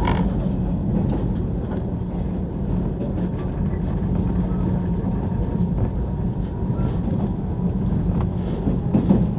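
Cabin running noise of a JR 185 series electric train: a steady low rumble of the wheels on the rails, with a few faint clicks.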